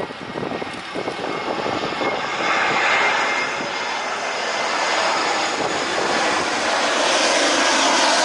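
Jet airliner on landing approach, its engine roar growing steadily louder as it comes in overhead.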